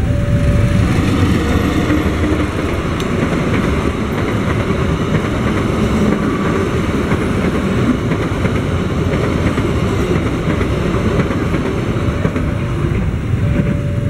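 Passenger train passing over a level crossing, a steady rumble of wheels on the rails. The crossing's alternating two-tone electronic warning sounds at the start, is drowned out by the train, and comes back near the end.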